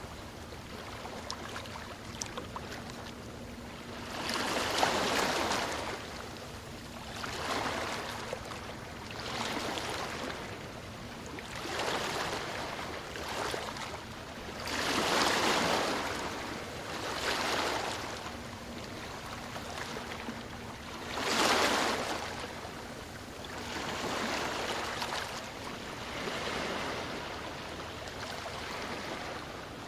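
Ocean surf: waves breaking and washing up the shore in repeated surges every two to three seconds, the largest about five, fifteen and twenty-one seconds in.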